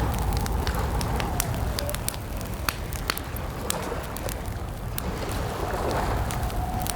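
Campfire crackling, with irregular sharp pops, over a steady low wind rumble and a faint wavering whistle of wind.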